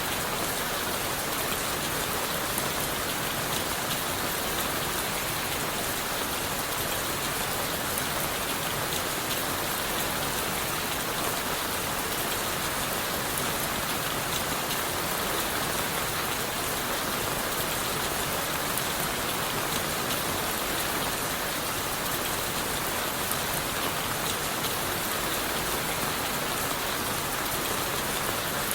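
Steady rain falling on leaves, wood and the forest floor, a dense even hiss flecked with many small drop ticks that neither builds nor eases.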